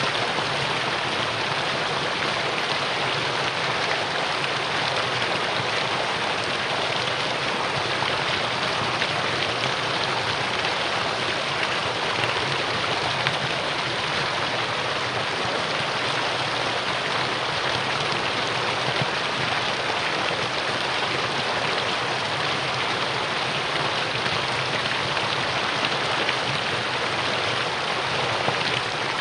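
Mountain valley stream rushing over rocks, a steady, even water rush with no change.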